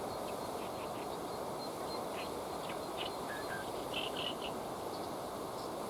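Steady rush of flowing river water, with scattered short, high bird chirps over it, a quick cluster of them about four seconds in.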